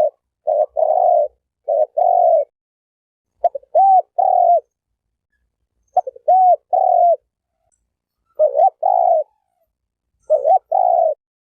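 Spotted dove cooing: repeated phrases of a short coo and a longer one, about one phrase every two seconds, some phrases with a rising-and-falling lilt. There is dead silence between the phrases.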